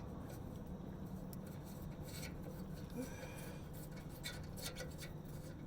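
Light scraping and a few scattered metallic clicks from hand work on a car's exhaust pipe and its fittings, over a steady low hum.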